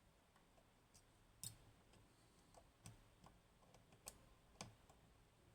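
Faint, scattered clicks of a lock pick working the pins inside an Agent LS5 twelve-pin lock, about six over a few seconds, the loudest about one and a half seconds in.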